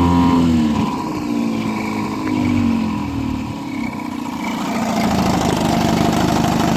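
A 1955 Johnson CD-12 5.5 hp two-cylinder two-stroke outboard motor running on the water. Its engine speed swings down and up in the first few seconds, then settles into a steadier run near the end.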